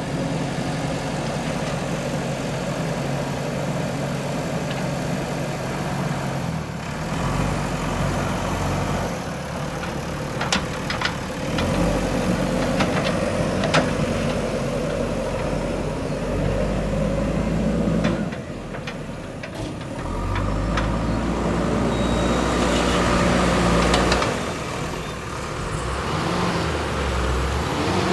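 JCB 3DX backhoe loader's diesel engine running while the machine works, its pitch and loudness rising and falling several times with the load, with a few sharp clanks a little before the middle.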